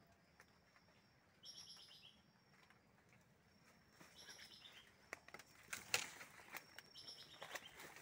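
A bird calling three times, each a quick run of high notes stepping down in pitch, with short thin high whistles in between. From about five seconds in, faint rustling and crackling of leaves and plant debris as someone pushes through wet banana plants.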